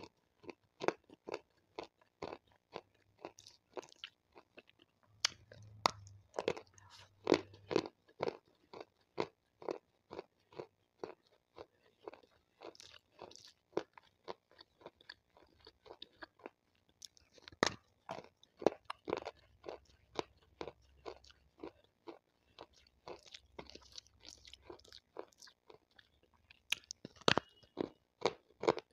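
Close-miked biting and chewing of a water-soaked white slate stone slab: a steady run of sharp crunches, a few every second, with some louder snaps among them.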